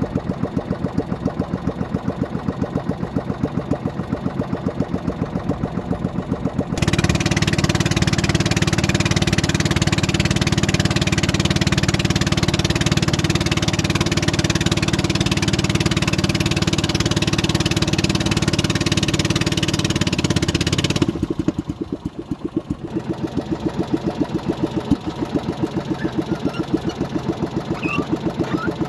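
Motorboat engine running with a steady rapid pulse; about seven seconds in it jumps abruptly to a louder, harsher run, then about fourteen seconds later drops back to the lower steady run.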